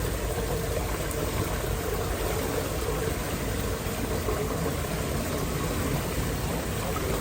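Steady rush of flowing floodwater, an even noise with no breaks.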